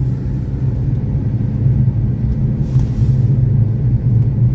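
Engine and road noise heard inside a moving vehicle's cabin: a steady low rumble.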